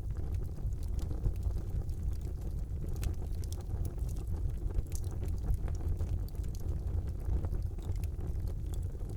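Fire burning in a fireplace: a steady low rumble with many small, sharp crackles and pops.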